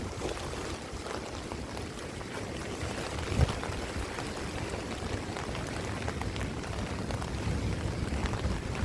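Wind buffeting the microphone, with a scatter of small taps and rustles and a single knock about three and a half seconds in.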